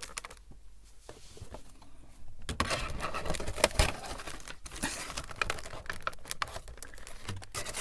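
Clear plastic packaging insert and cardboard box of a Funko Pop crinkling and clicking as they are handled. It is sparse at first, then busy, irregular crackling from about two and a half seconds in.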